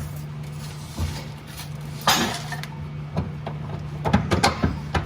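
Metal car parts and hand tools clinking and knocking as parts are fitted and bolted together, with a cluster of sharp taps near the end, over a steady low hum.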